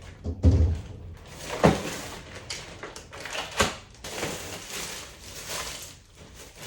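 Household handling noises: a few sharp knocks and clatters, like doors or cupboards being moved, with softer rustling in between. The loudest knock comes about three and a half seconds in.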